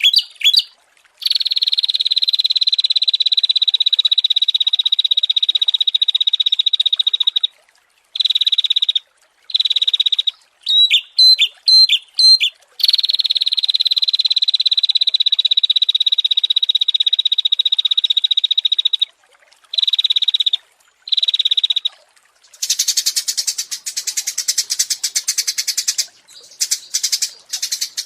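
Small songbird song: long, rapid, buzzing trills held on one high pitch and sinking slightly, each lasting several seconds, broken by a quick run of sharp chirps about eleven seconds in. Over the last five seconds a harsher, hissier trill takes over.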